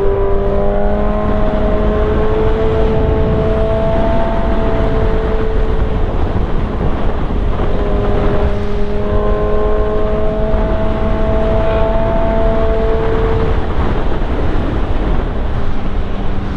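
Yamaha R1 sport bike's inline-four engine running under steady throttle while riding, its pitch easing up and down slowly. Heavy wind rush on the microphone is mixed in.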